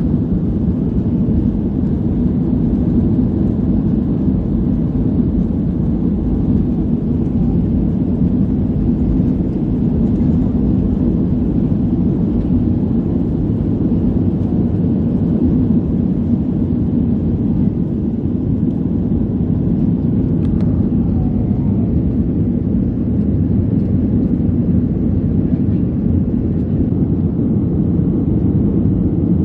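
Steady low rumble of a jet airliner heard from inside the passenger cabin: engine and airflow noise, even throughout.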